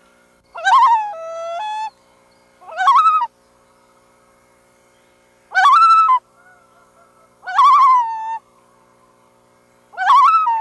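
Loon calling five times, about every two seconds: each call a loud, quavering, wavering-pitched phrase, several ending in a held steady note.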